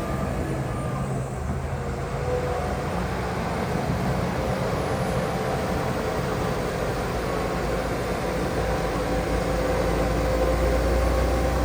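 Heavy diesel engines of earthmoving machines running steadily. A low engine drone strengthens a little near the end.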